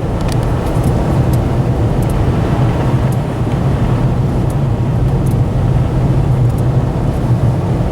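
Steady in-cabin drone of a 2013 Dodge Ram 1500 pickup with a Hemi V8 cruising on a snow-covered road: a constant low engine hum over tyre and road noise, with a few faint ticks.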